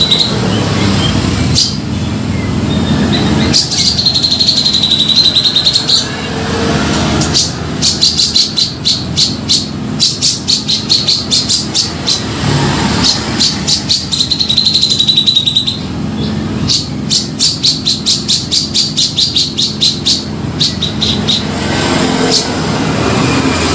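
Grey-cheeked bulbul (cucak jenggot) in full song. Held, wavering high notes alternate with fast runs of rapidly repeated notes, over a steady low background rumble.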